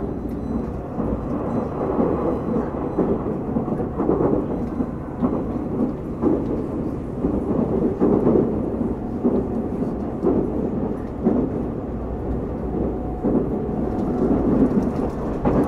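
Rumble of a Tobu Railway limited express train running at speed, heard from inside the car: steady wheel-on-rail noise that rises and falls a little, while another train passes close alongside. It swells near the end.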